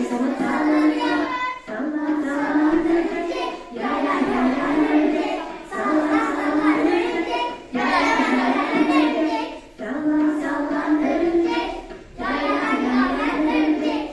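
Children singing a Turkish children's song about a spider, in phrases of about two seconds each with short breaks between them.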